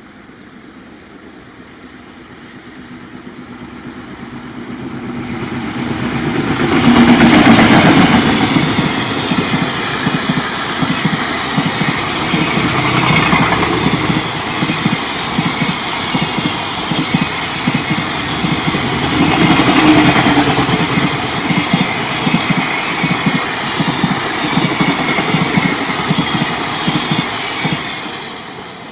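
A JR Freight EF200 electric locomotive and its container freight train pass at speed. The sound builds to its loudest about seven seconds in as the locomotive goes by, then the wagon wheels beat in a quick, steady rhythm on the rails until the train fades near the end. The locomotive's wheels make a noise the uploader flags as a possible abnormal wheel noise.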